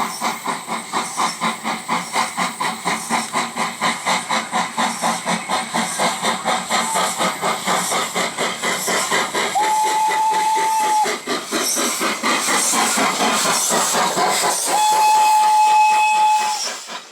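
H.K. Porter 0-6-0T tank steam locomotive working hard, its exhaust chuffs quickening until they run together into a steady hiss. Its steam whistle sounds two single-pitch blasts, about ten and fifteen seconds in, the second one longer.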